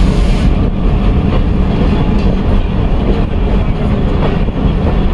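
Passenger train coaches running on the rails, heard from an open doorway: a steady low rumble with a few clacks of the wheels over rail joints. A hiss drops away about half a second in.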